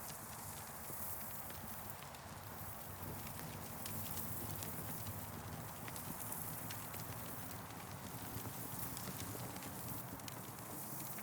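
Campfire crackling: irregular sharp pops and snaps over a steady low rumble and a high hiss.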